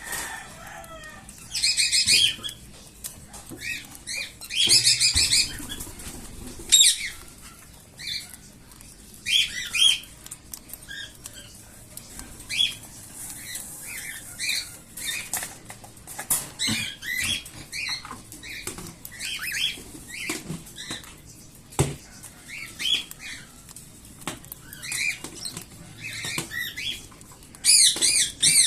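Young cockatiel chicks giving raspy, rapidly pulsing food-begging calls in repeated short bouts, as chicks do while being hand-fed; the loudest bouts come about 2, 5 and 7 seconds in and near the end.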